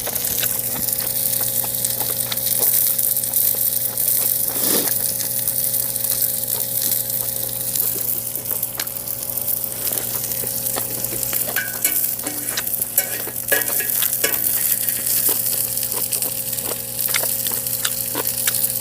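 Lamb sizzling as it grills: a steady high hiss dotted with frequent small pops and crackles of spitting fat, over a steady low hum.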